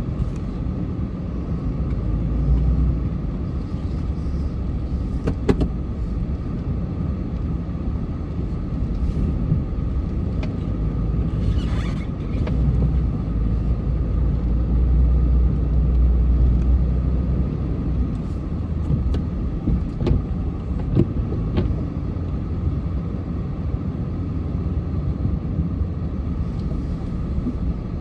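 Snow-plow truck's engine running with a steady low rumble and an even whine, broken by a few sharp clicks and knocks.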